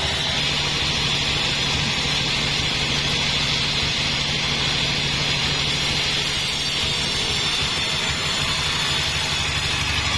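A sawmill's engine running steadily, with a steady high whine above it.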